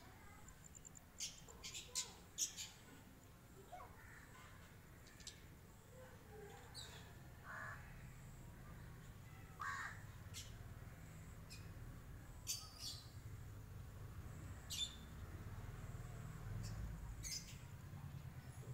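Faint birds calling: scattered short, sharp chirps and a few lower calls, over a low rumble that grows louder near the end.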